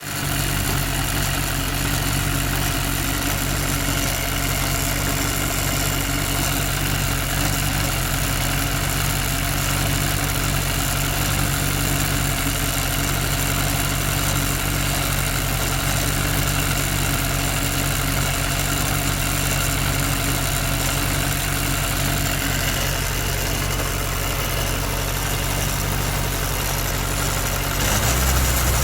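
Motorcycle engine running steadily with an abnormal noise from around the front drive sprocket, which the owner likens to the chain slider rubbing and which is only there with the drive engaged, not in neutral or with the clutch pulled in. The cause is unknown: the noise persists even with a new chain and sprockets. Near the end the low engine sound gets louder.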